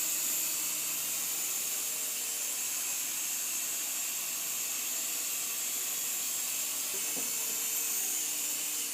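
Small Protocol Tiger Jet toy remote-control helicopter's electric motors and rotors whirring steadily as it is brought in to land, with a faint knock about seven seconds in.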